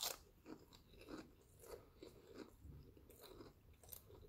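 Faint, close-up chewing of a mouthful of potato chips: soft, irregular crunches and mouth clicks.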